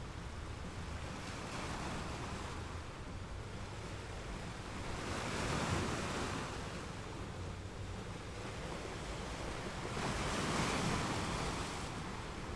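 Ocean surf: a steady wash of waves, swelling and fading twice as waves roll in.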